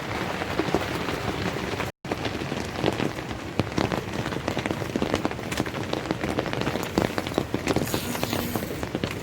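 Steady rain, with many separate drops hitting tent fabric. The sound cuts out for an instant about two seconds in.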